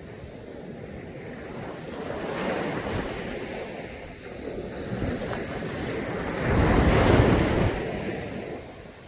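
Sea waves breaking and washing up a beach: a smaller wave swells about two seconds in and a louder one breaks about six and a half seconds in, then the wash falls away. There is some wind on the microphone.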